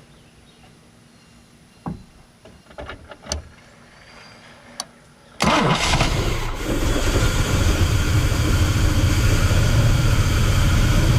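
A few light clicks and knocks, then about five seconds in a Vortec V6 fires up suddenly and keeps running steadily. This is the first start after a fuel system overhaul (new fuel pump and spider injection, water drained from the tank), and the engine is running again.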